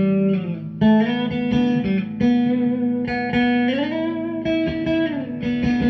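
Electric guitar music: a melody of sustained notes, with a slide up to a higher held note partway through and back down near the end.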